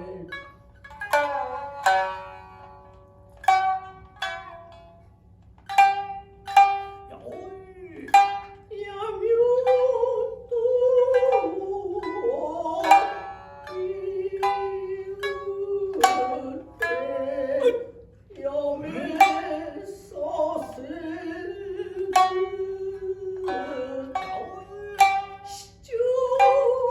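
Shinnai-bushi shamisen accompaniment: the main shamisen and the higher-tuned uwajōshi shamisen play sharp, spaced plucks. From about eight seconds in, the jōruri chanter's voice joins with long, wavering drawn-out notes.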